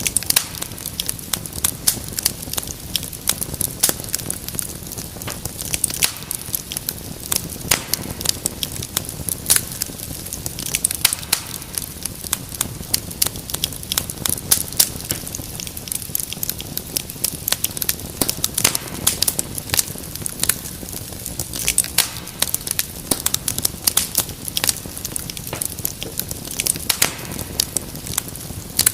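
Wood fire crackling steadily: dense, irregular sharp pops and snaps over a low steady rumble of the flames.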